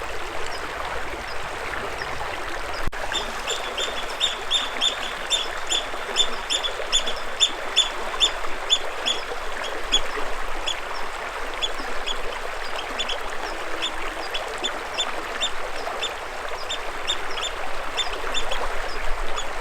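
A bird calling in a long series of short, high, repeated notes, about three a second, starting a few seconds in, over the steady rush of running water.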